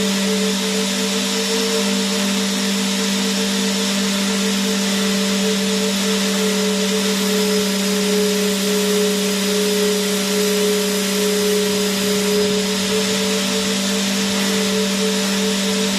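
Vacuum cleaner running steadily with no change in speed: a constant low hum and a slightly wavering higher tone over a broad, even hiss.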